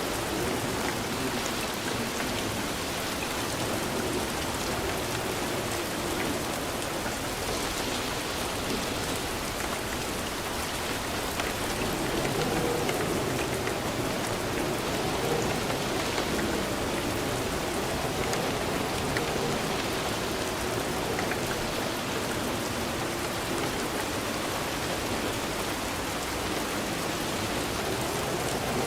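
Steady heavy rain falling, a continuous even hiss with scattered drop taps.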